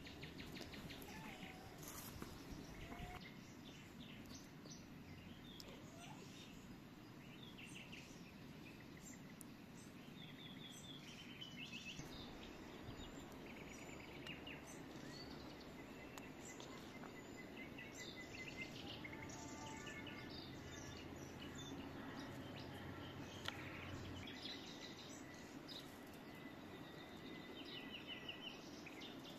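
Songbirds chirping and trilling in the trees: many short calls, some as quick repeated notes, scattered through the whole stretch over a faint, steady outdoor background hiss.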